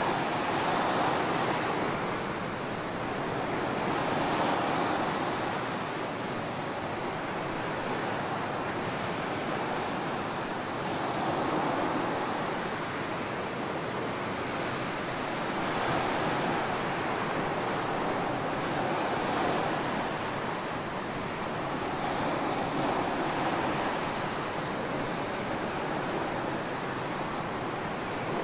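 Ocean surf breaking and washing up on a beach, a steady rush that swells and falls every few seconds.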